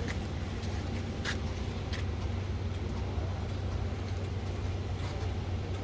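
An engine idling steadily, a low even hum, with a few faint clicks about one and two seconds in.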